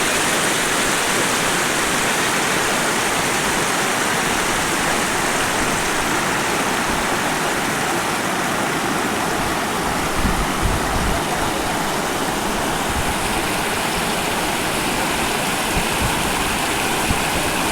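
Waterfall: falling water rushing steadily in an even, unbroken wash of noise, with a few brief low bumps on the microphone around ten seconds in and near the end.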